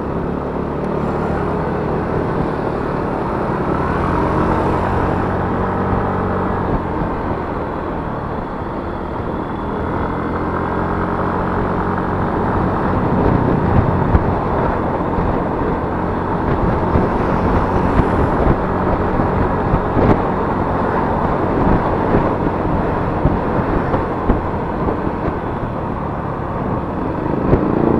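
Yamaha Mio S 125 cc scooter's single-cylinder four-stroke engine running under way, its pitch rising and falling a few times with the throttle, over wind rush on the microphone. Short sharp knocks come now and then in the second half.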